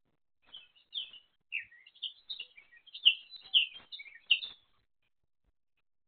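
A small bird chirping: a quick run of short, high notes for about four seconds, louder towards the end, then it stops.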